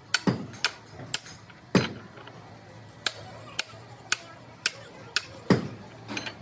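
Hammer blows on metal: about a dozen sharp, ringing strikes, roughly two a second, some harder than others.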